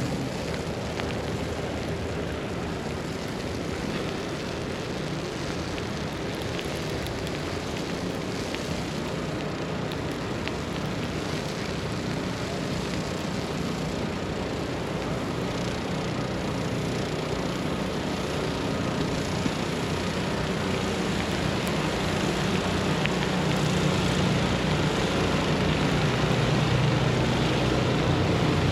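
Steady city street ambience: a low, even engine-like rumble, as of distant traffic, over a constant hiss, with the low hum swelling slowly toward the end.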